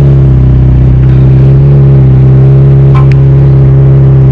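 McLaren 720S twin-turbo V8 droning steadily at constant revs, heard from inside the cabin, with a brief click about three seconds in.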